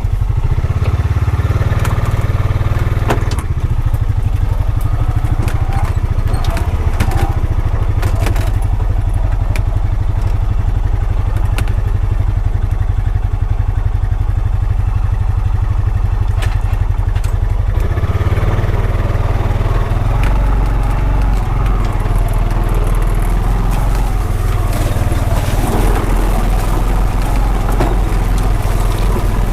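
Honda Pioneer 520 side-by-side's engine running steadily as it drives, with tyres crunching and knocking over rough ground. The engine gets louder about two-thirds of the way through.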